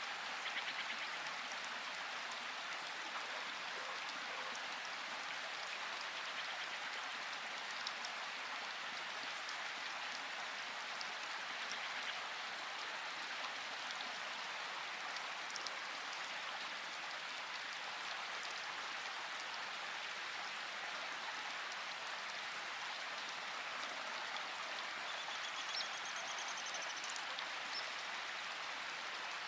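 Steady rainfall, an even hiss of drops with no let-up, with a few faint high chirps near the end.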